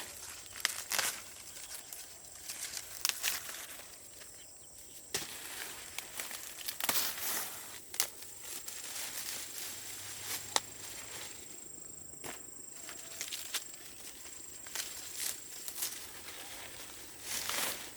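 Dry plant material rustling and crackling irregularly as it is handled, with scattered sharp snaps and a faint steady high-pitched tone behind.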